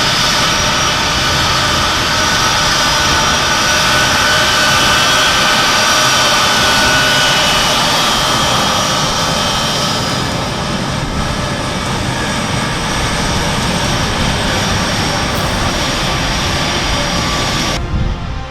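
C-17 Globemaster III's Pratt & Whitney F117 turbofan engines running at high power: a loud, steady jet rush with a high whine that weakens about ten seconds in. The sound cuts off abruptly just before the end.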